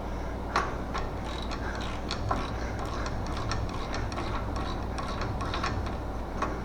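Hand socket ratchet clicking in short irregular runs as a suspension nut is worked, with a few louder metal clicks among them.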